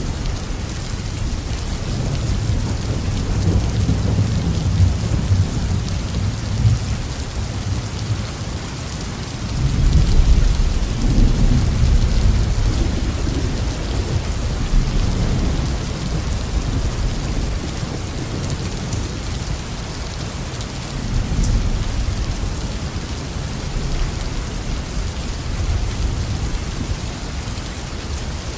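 Heavy rain falling steadily, with rolling thunder underneath. The deepest and loudest rumble swells about ten seconds in, with weaker rumbles before it and again later.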